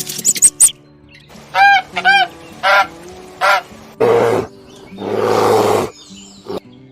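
Four short, evenly pitched bird calls, then two longer harsh rushing noises, over background music.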